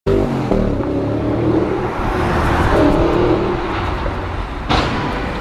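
Car engine running loud and revving, with road and wind roar, then a sudden sharp bang near the end.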